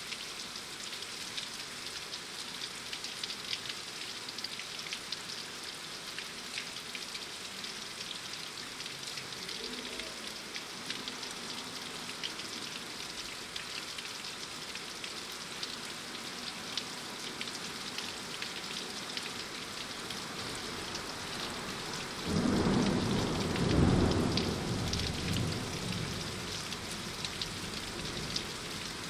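Steady rain with a patter of individual drops. About three quarters of the way through, a rumble of thunder rolls in, swells, and fades over a few seconds.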